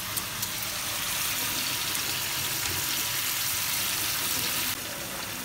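Steady sizzling hiss of chicken and spice masala frying in oil in a karahi. It dips a little near the end.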